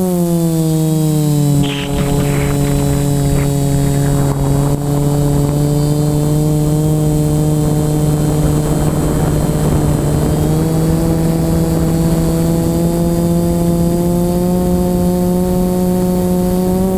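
Motor and propeller of an FPV model aircraft running with a steady pitched drone. The pitch dips briefly about two seconds in and creeps up around ten seconds in. Strong wind rushes over the onboard microphone throughout.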